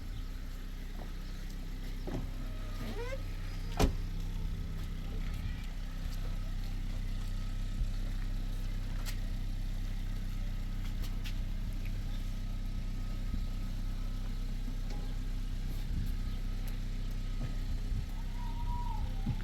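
A steady low engine hum, with a single sharp click about four seconds in.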